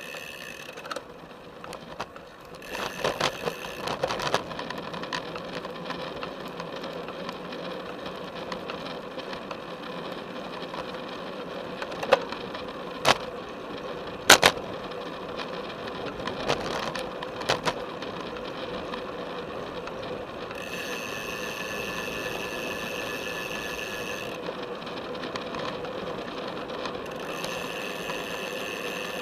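2011 Felt F75 road bike ridden on a paved path, heard through a camera strapped to its top tube: steady tyre and frame noise with rattling, and a handful of sharp knocks around the middle as the bike goes over bumps.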